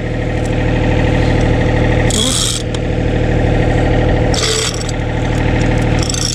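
Excavator's diesel engine running steadily while the bucket is raised, with three short hissing bursts from the hydraulics and a brief falling whine about four and a half seconds in.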